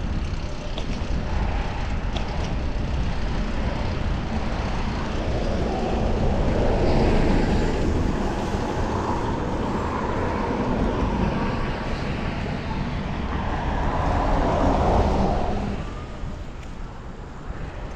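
Wind rumble on the microphone and city road traffic heard from a moving bicycle; a louder passing-vehicle noise swells about five seconds in and fades out near the end.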